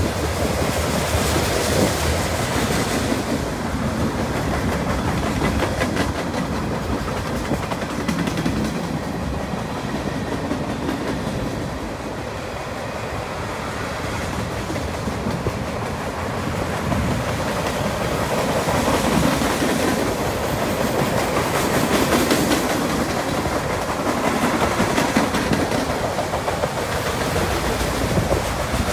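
CN mixed freight train's cars rolling past, steel wheels clacking over the rail joints with a steady rumble.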